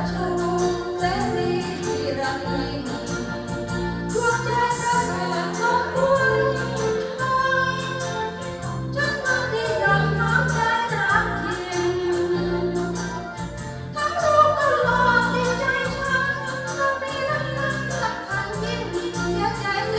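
A song with a woman singing over an instrumental backing with a steady beat.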